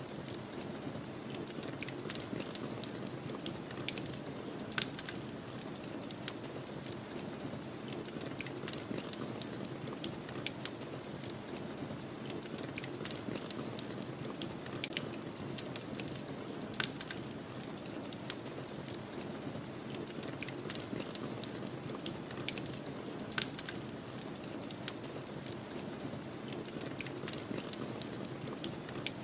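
Wood fire crackling with frequent sharp pops and snaps at irregular intervals, over a steady low rush of snowstorm wind.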